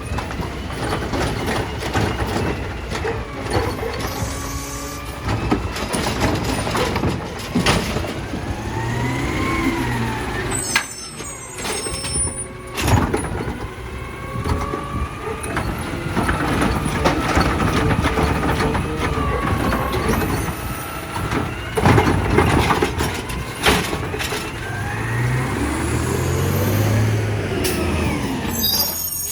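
Automated side-loader garbage truck at work: the diesel engine revs up and down again several times, with sharp knocks and clanks in between and an air-brake hiss.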